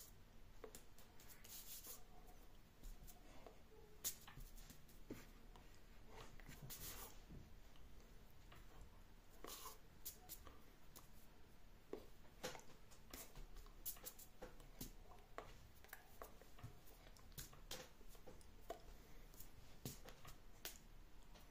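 Near silence with scattered faint clicks, taps and short rustles, the sound of small handling movements.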